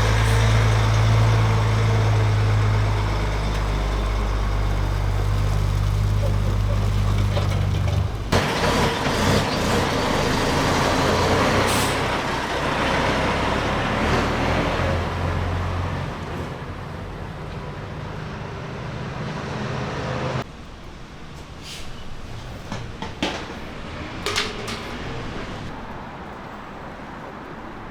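Large truck's diesel engine running with a steady low drone. About eight seconds in the drone drops away and a broad hissing noise takes over. The hiss ends suddenly about twenty seconds in, leaving a quieter background with a few sharp clicks.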